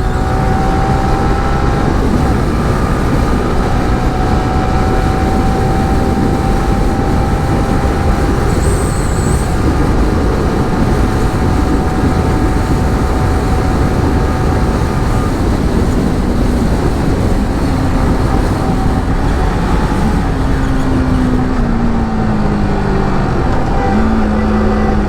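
Steady rush of wind over the rider's microphone, with engine and road noise, from a motorcycle at highway speed.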